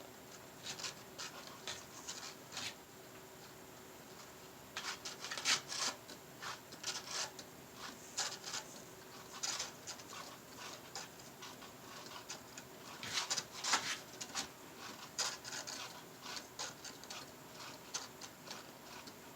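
A cat making short scratchy, rubbing noises in irregular clusters, with quiet gaps between.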